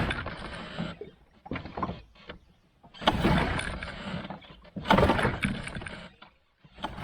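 Small boat being propelled by hand: a splashing stroke through the water about every one and a half to two seconds, each starting sharply and fading out.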